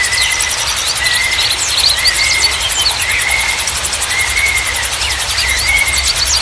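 Outdoor nature ambience of songbirds calling, with a short whistled note about once a second and quick high chirps, over a steady, fast-pulsing high insect trill.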